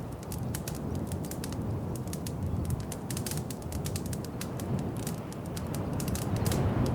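Wood fire crackling in a fireplace: many sharp, irregular pops and snaps over a steady low rumble of the burning logs.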